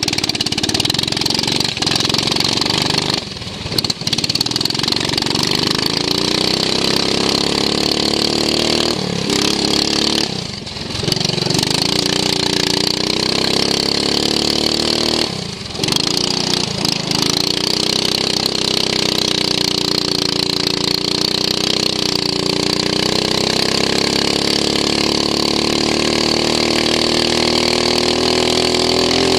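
Racing lawn mower's engine heard onboard, revving up and down as it is driven round the circuit. The revs drop briefly three times, the longest drop about ten seconds in, then climb again.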